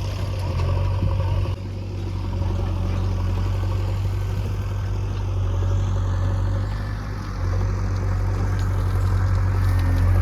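Heavy diesel engine running steadily with a deep, even hum, from the machinery loading the tractor trolleys.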